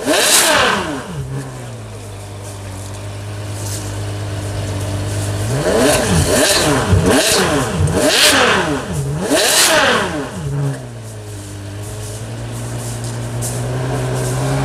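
Ferrari 599 GTO's V12 engine revved while standing: one sharp blip at the start, a steady idle, then four quick rev blips in a row, each rising and falling in pitch, before it settles back to idle.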